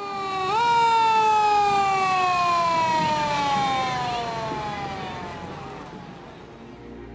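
A siren, one pitched tone that jumps up briefly about half a second in, then slowly winds down in pitch and fades away over about six seconds.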